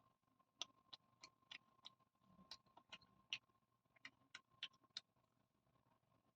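Close-up wet eating sounds: irregular sharp mouth clicks and smacks of chewing, about two or three a second, faint.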